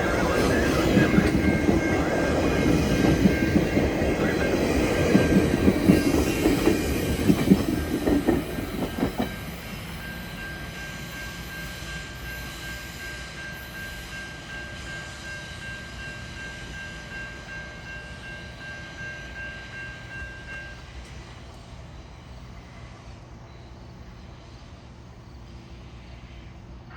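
GO Transit commuter train passing close by, loud for about the first nine seconds and then dropping away sharply as it moves off, leaving a fading rumble. A steady high tone carries on until about twenty seconds in.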